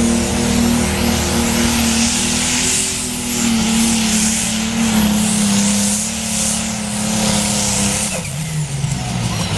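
Tractor-pulling machine's engine running hard at steady high revs, with a thin high whistle above the engine note. About eight seconds in, both the engine note and the whistle drop in pitch as the revs fall.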